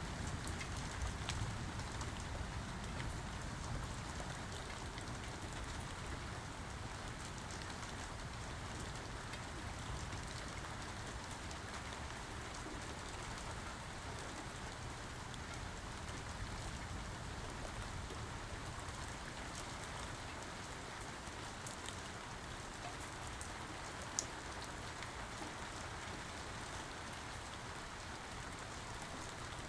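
Steady rain falling, an even hiss of drops. A low thunder rumble dies away over the first few seconds, and a single sharp tick stands out about three quarters of the way through.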